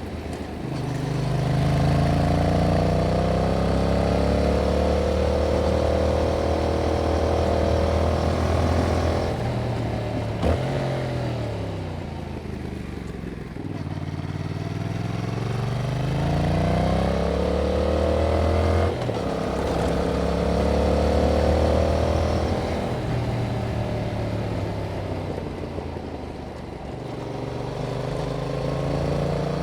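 A Yamaha MT-07's parallel-twin engine running through its stock exhaust under load on the move. The pitch falls off about ten seconds in, climbs again, drops abruptly near the twenty-second mark, eases off once more near the end and then rises.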